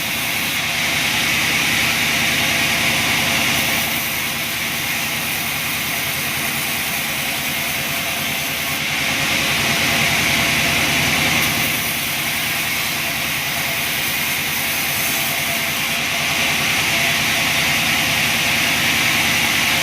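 Chainsaw running continuously while cutting through a log, with its pitch and loudness swelling in a few stretches as the chain bites under load.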